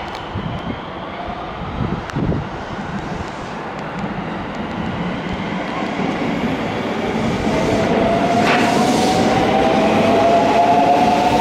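A train running at the station. From about seven seconds in, a whine rises in pitch and the running noise grows louder as the train accelerates.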